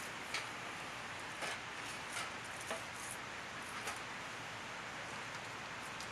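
A few light clicks and rustles of something being handled, spread over the first four seconds, over a steady background hiss.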